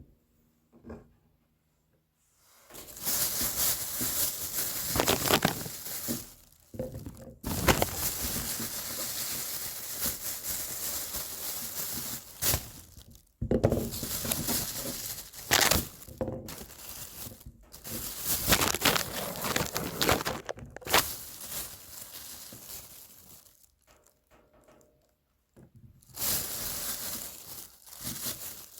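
Kitchen knife rapidly chopping garlic on a cutting board, mincing it, in runs of several seconds broken by short pauses.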